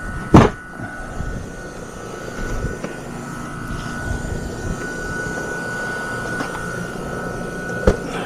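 Steady machine hum with a thin, high, steady whine, typical of a running heat pump system. A loud knock comes about half a second in and a sharper one near the end.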